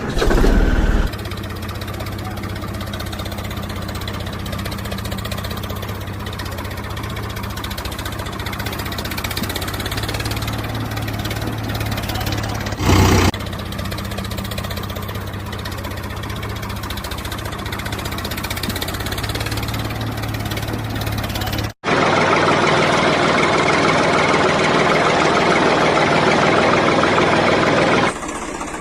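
An engine idling steadily, with a short louder burst near the start and another about halfway through. About 22 s in it cuts off abruptly and gives way to a louder, denser engine-like sound that stops near the end.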